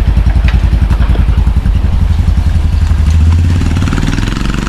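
Motorcycle engine running with a fast, steady beat; its note rises a little about three seconds in.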